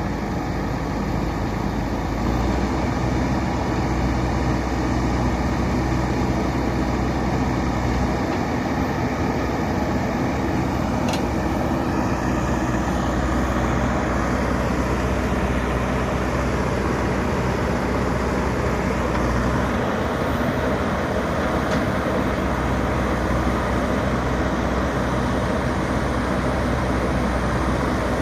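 JCB 3DX Super backhoe loader's diesel engine running steadily while the machine works. It gets louder a couple of seconds in, and the low engine note shifts a few times.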